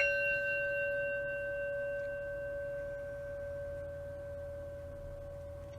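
Singing bowl chime from a meditation interval timer, struck once and ringing on with a few clear steady tones that slowly fade; it marks the end of a two-minute interval.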